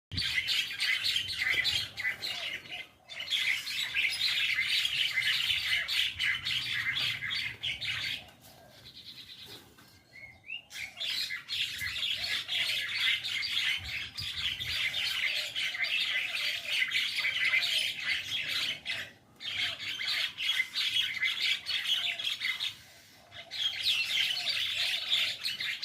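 A flock of mynas chattering and squawking over one another in a dense, noisy din. It drops off for a second or two about a third of the way in, and briefly again later.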